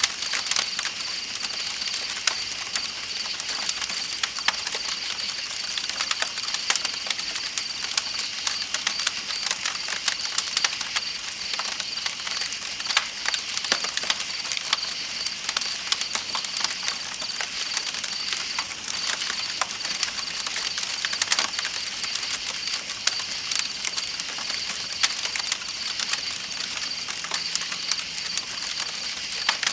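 Campfire crackling with frequent sharp pops, over a steady high-pitched drone of night insects and the hiss of flowing river water.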